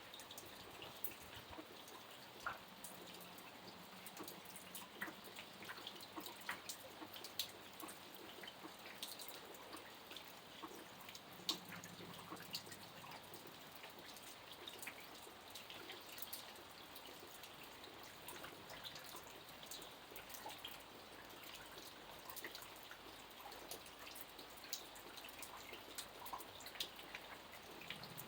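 Light rain: a faint steady hiss with many individual drops and drips landing at irregular intervals.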